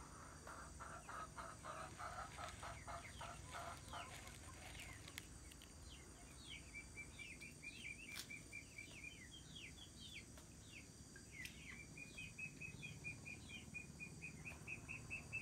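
Faint bird calls: a quick run of lower, pulsing notes in the first few seconds, then two long, rapid trills of high chirps from about six seconds in.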